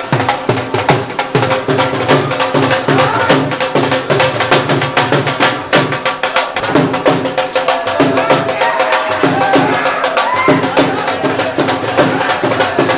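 Folk-style devotional music with fast, steady drumming and clattering hand percussion, and a melody line gliding over it.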